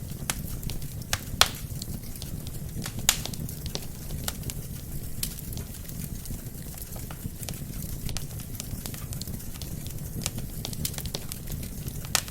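Wood fire burning in a fireplace: a steady low rumble of flames with irregular sharp crackles and pops from the burning logs, two of them louder about a second and a half and three seconds in.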